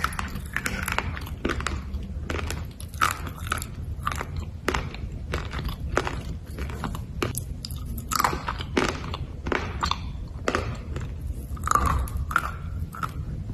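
A person biting into and chewing black slate bars: repeated sharp, irregular crunches, a few each second.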